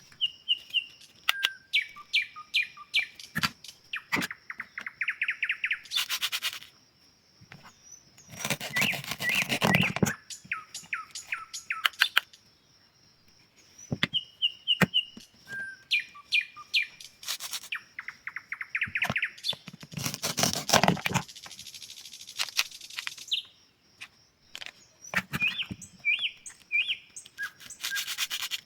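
Bird-like chirping in short runs of high calls over a steady high tone, broken by several loud rasping bursts about a second long; the same sequence of chirps repeats about halfway through.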